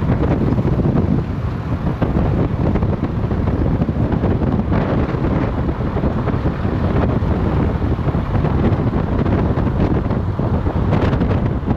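Strong wind buffeting the microphone from a moving vehicle, with vehicle road noise underneath.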